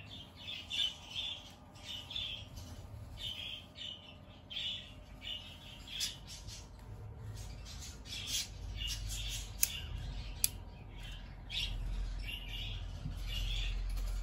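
A bird chirping and squawking in short, repeated calls, over low handling rumble in the second half. Two sharp clicks come a little after the middle.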